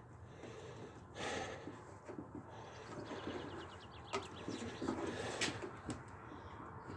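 Light handling sounds from working on a mower axle: soft rustles and scrapes, and a few sharp metallic clicks between about four and six seconds in.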